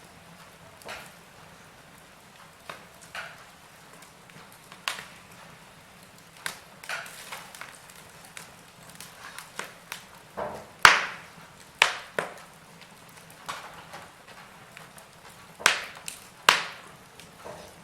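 Wood fire burning in a fireplace, crackling and popping irregularly over a faint hiss, with a few sharper snaps, the loudest about eleven seconds in and two near the end.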